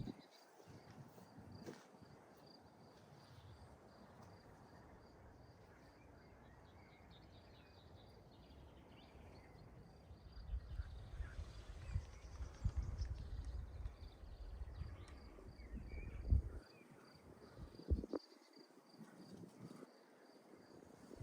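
A cricket chirping steadily in an even pulse. There are a few low thumps, and a stretch of low rumbling from about ten to sixteen seconds in.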